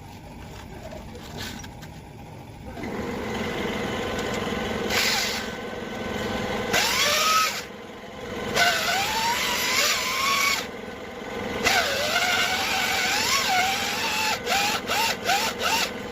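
Power drill driving a hone in the cylinder bores of a Cummins engine block, its motor pitch wavering up and down under load. Near the end it is run in short stop-start bursts, about two a second.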